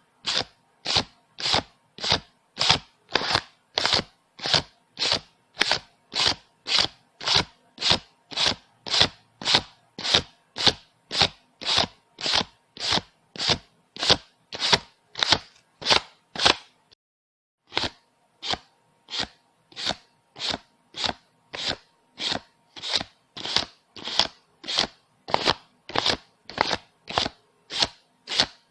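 Paper banknotes being counted one note at a time, each note giving a crisp flick, in a steady rhythm of about two and a half a second. The counting pauses for about a second roughly two-thirds of the way through, then resumes.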